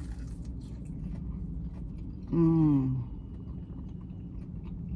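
A steady low engine rumble, as of a car idling with the listener in the cabin. About two seconds in, a woman gives one short falling "mmm" of enjoyment as she tastes food.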